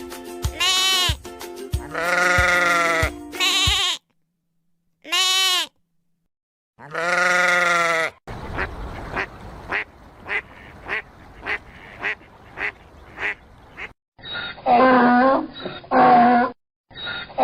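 A sequence of farm-animal calls: sheep bleating several times with silent gaps between; then ducks quacking in a steady run of about two quacks a second; then cattle mooing, starting near the end.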